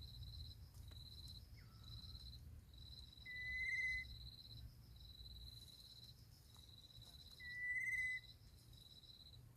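Insects trilling in repeated short bursts, with two louder single whistled calls, about three and seven and a half seconds in.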